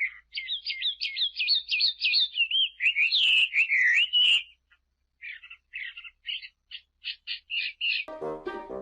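A bird calling in rapid series of high chirps and whistled up-and-down glides, with a short pause midway, followed by a second run of quick chirps. Music comes in near the end.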